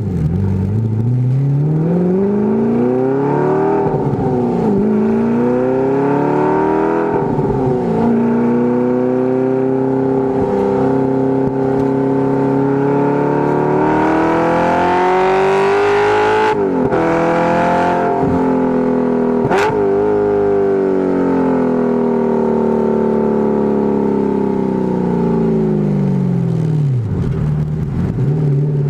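Audi R8's 4.2-litre V8 through a Fast Intentions dual exhaust, heard close at the tailpipes while driving: the engine note rises and falls several times as the manual gearbox is worked through, with a sharp drop and fresh climb near the end.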